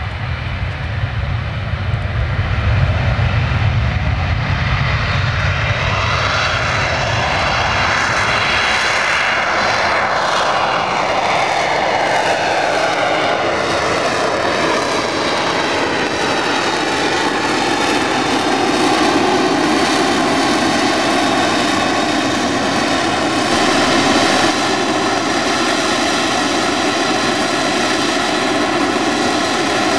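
Aircraft flying past with a loud engine drone; several tones fall in pitch together about a third of the way in as it passes, then hold steady as it flies on.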